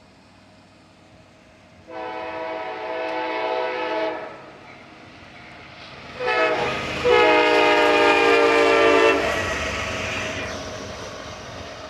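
Diesel freight locomotive's air horn sounding two blasts, a chord of several notes. The first blast comes about two seconds in and lasts about two seconds. The second, louder blast starts about six seconds in and lasts about three seconds, with the train's rumble under it that fades afterward.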